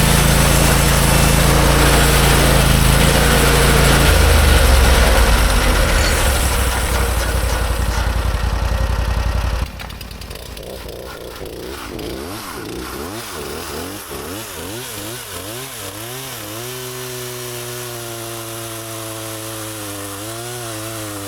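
Portable bandsaw mill's gasoline engine running under load as the blade cuts through a log, louder for a couple of seconds near the middle of the cut. The sound stops abruptly about ten seconds in, leaving a quieter, wavering drone.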